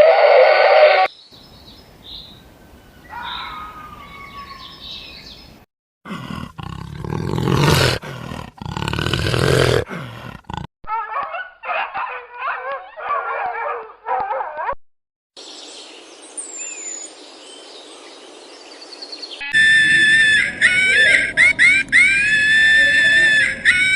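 A string of short, separately cut animal calls, one after another; the loudest, a few seconds in, is a deep, rough roar.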